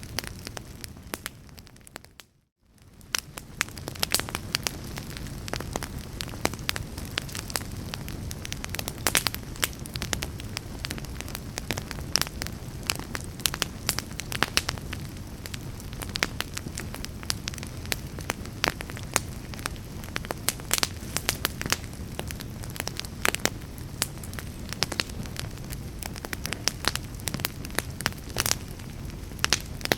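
Wood fire burning in a fireplace, crackling and popping with a steady low rumble of flames. About two seconds in, the sound fades out to near silence for a moment and then comes straight back.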